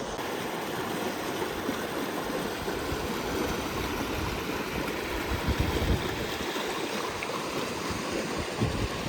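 A waterfall pouring into a pool, a steady rush of water.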